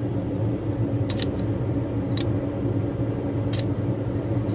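A steady low machine hum, with a few light, sharp clicks scattered through it.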